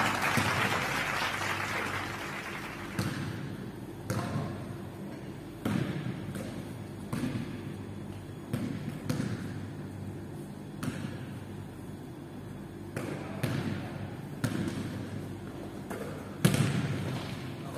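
A basketball bouncing and thudding on an indoor court, in irregular knocks that echo around a large gym hall, the loudest near the end. Beneath them runs a steady low hum, and a rushing noise fills the first couple of seconds.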